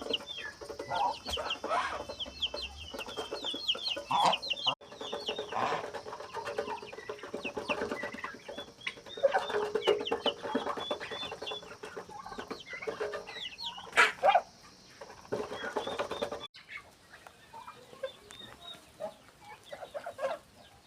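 A flock of chickens clucking, with many short high-pitched chirps throughout.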